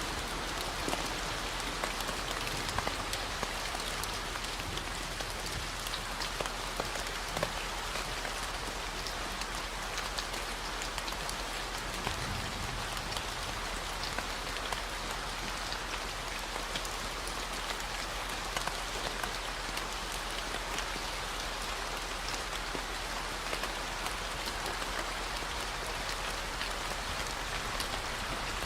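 Steady rain falling, an even hiss with scattered drop ticks, layered with a constant low 40 Hz tone.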